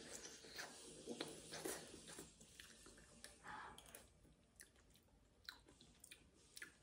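Faint chewing of soft lasagna eaten by the spoonful, with a few short sharp clicks in the second half.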